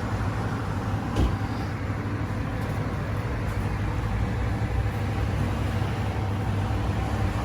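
Steady road and engine noise of a moving car, heard as a low rumble, with a single thump about a second in.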